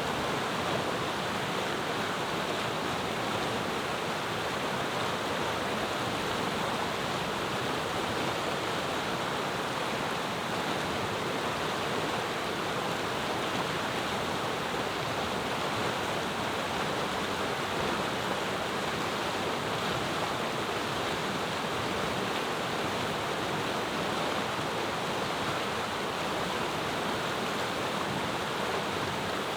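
A clear mountain river flowing, its water rushing in a steady, unbroken wash with no change in level.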